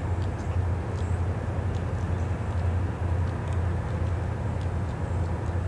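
Steady low rumble of distant diesel locomotives, with a few faint clicks above it.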